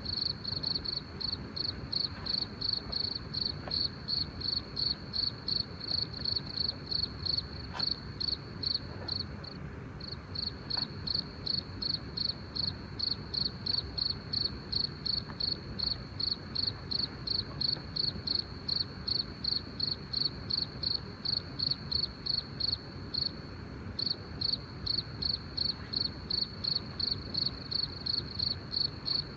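A cricket chirping: a high, pulsed call repeating about three times a second, breaking off briefly about ten seconds in and again near twenty-three seconds.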